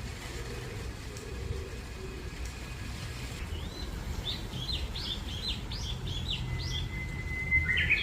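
A songbird singing a quick run of short, high chirps starting about three and a half seconds in, followed by a thin held whistle and a louder call near the end, over a steady low rumble.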